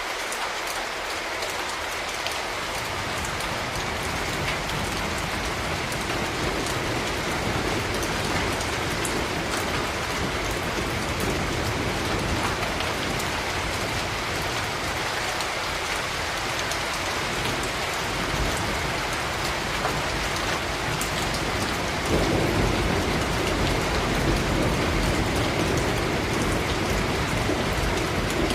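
Steady heavy rain falling on surfaces, a dense hiss with scattered individual drop ticks. A deeper low rumble builds under it and swells louder about 22 seconds in.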